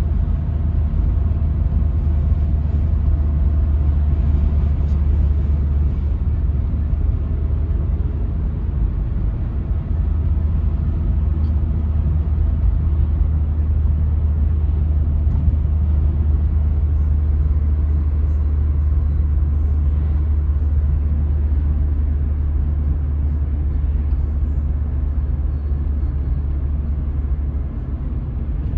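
1995 Toyota Carina E 1.6 16V inline-four car on the move: engine and road noise as a steady low rumble.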